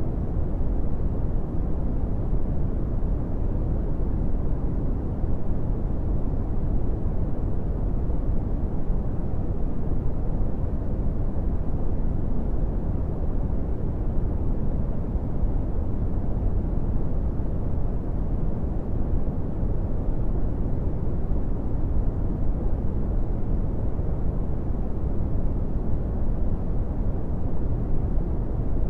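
Brown noise: a steady, deep rumbling hiss with most of its energy in the low end and little above the midrange, unchanging throughout.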